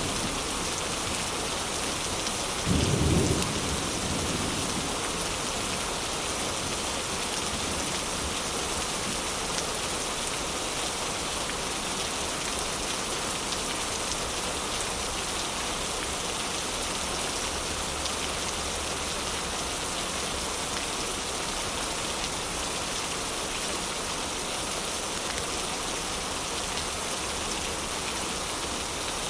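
Heavy rain falling steadily, an even hiss. About three seconds in comes one short, low thump.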